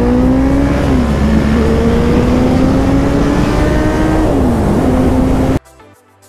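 Motorcycle engine accelerating, its pitch climbing through the gears with upshifts about a second in and about four and a half seconds in, over wind noise. It cuts off suddenly near the end, giving way to quiet music.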